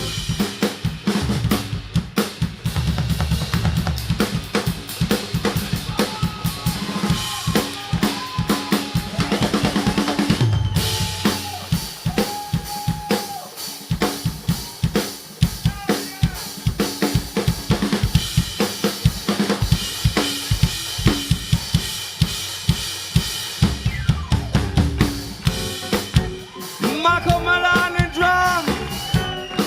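Live funk band instrumental: electric bass solo over a busy drum-kit groove of kick, snare and hi-hat, with other instruments adding held and bending notes higher up.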